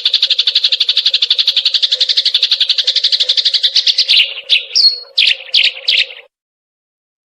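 Eurasian tree sparrow chattering in a fast, steady run of chirps, about ten a second. Near the end this breaks into a few separate chirps, then cuts off abruptly about six seconds in, over a faint steady hum.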